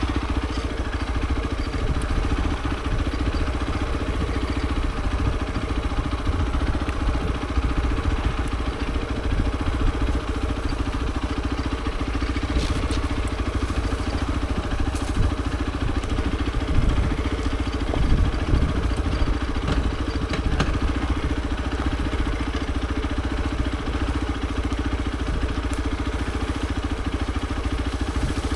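Hero XPulse 200 4V motorcycle's single-cylinder engine running at a fairly steady speed, with brief swells about two thirds of the way through.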